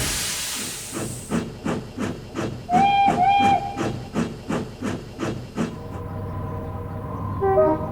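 Steam locomotive setting off: a burst of escaping steam, then steady chuffing at about three puffs a second, with two short toots of its whistle about three seconds in. The chuffing stops near six seconds as soft held music comes in.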